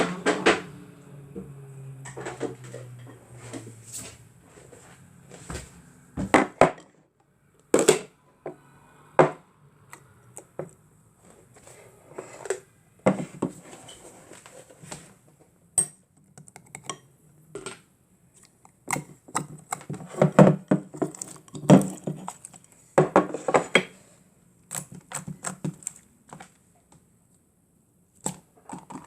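Slime being squished and pressed by hand, making irregular sticky clicks and pops with a few short squelching squeaks.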